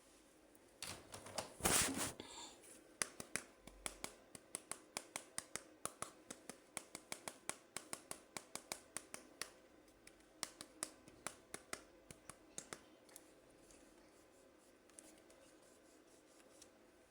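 A short, loud rustle, then a long run of sharp, evenly spaced clicks at about three a second, stopping near the end. These are hand-handling sounds from unboxing toys.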